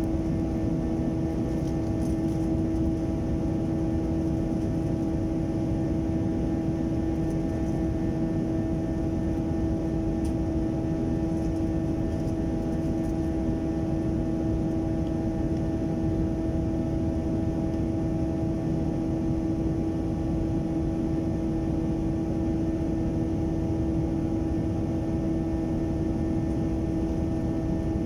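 Steady drone of an airliner heard from inside the passenger cabin: jet engine and airflow noise with a constant hum tone over it, unchanging throughout.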